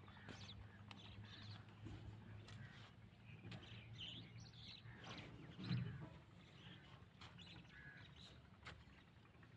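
Faint outdoor ambience with scattered short bird chirps and a low steady hum underneath.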